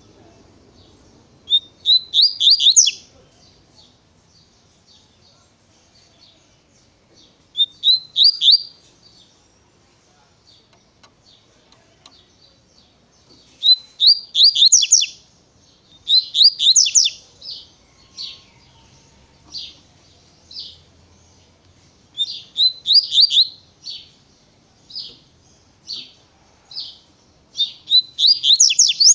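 Double-collared seedeater (coleiro) singing its 'tui-tui' song: short, rapid phrases of high notes every few seconds, loud and clear, with single separate notes spaced about a second apart between the phrases in the second half.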